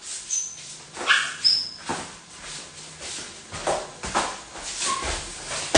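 A dog whimpering, with a few brief high-pitched squeaks.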